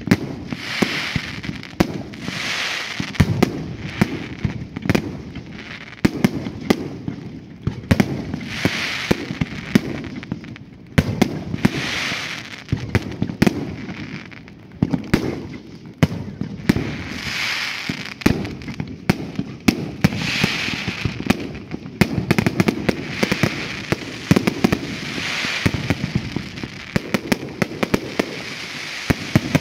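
Fireworks display: a rapid, continuous run of sharp bangs and cracks, with a hiss swelling and fading every few seconds.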